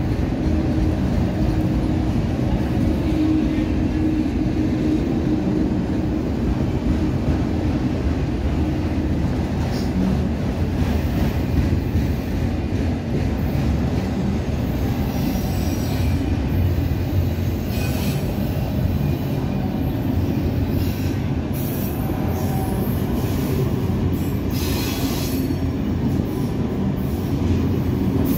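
Freight train of autorack cars rolling past at steady speed: a continuous low rumble of steel wheels on rail. Brief high-pitched wheel screeches come through in the second half.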